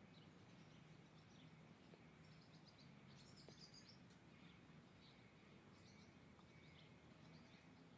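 Faint songbirds calling: scattered short, high chirps and a few quick trills, with a busier burst a little after the middle, over a steady low background hum.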